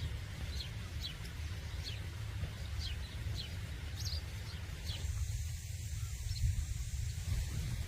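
A small bird chirping over and over, short falling chirps about twice a second, which stop about five seconds in. Underneath runs a steady low rumble.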